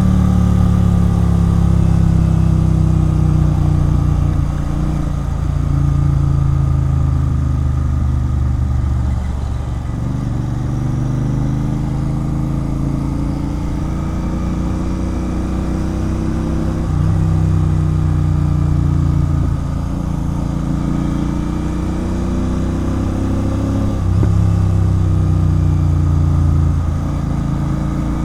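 Royal Enfield Continental GT 650's parallel-twin engine running through an aftermarket Red Rooster Performance exhaust while riding. The engine note climbs slowly and levels off with the throttle, in louder stretches alternating with quieter ones.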